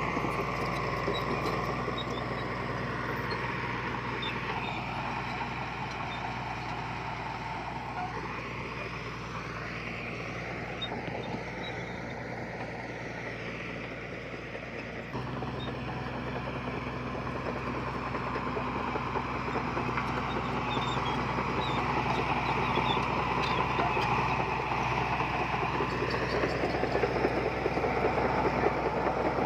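Diesel engine of heavy earthmoving machinery running steadily. Its note changes abruptly about halfway through, and the sound grows louder toward the end.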